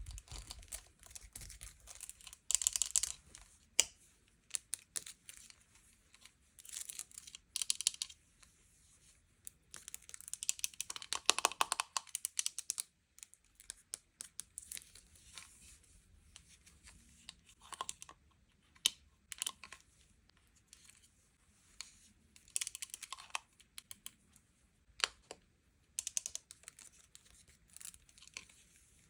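Plastic sweet and toy packaging being handled and opened up close: irregular sharp clicks and taps, with short bursts of crinkling and tearing and quiet gaps between them.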